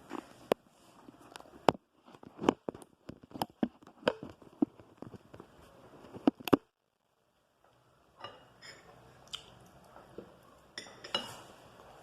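A person chewing and biting into meat, with many sharp clicks and crunches up close, broken by about a second of dead silence just past the middle before the chewing sounds resume.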